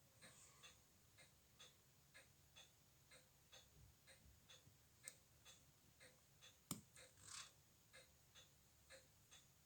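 Faint, steady ticking of a restored Glashütte Spezimatic automatic wristwatch movement, about two ticks a second. A single sharper click comes about two-thirds of the way in, followed by a brief rustle.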